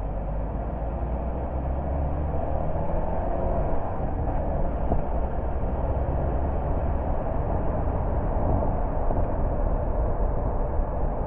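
A car on the move: steady road and tyre noise with a low engine hum, which is strongest in the first few seconds and fades about halfway through.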